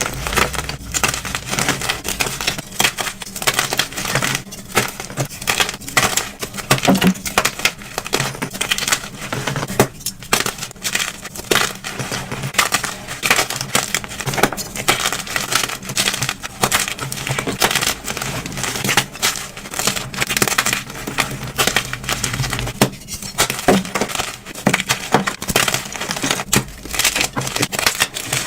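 Blocks of dyed gym chalk being crushed and crumbling, a dense, continuous run of sharp crunching crackles.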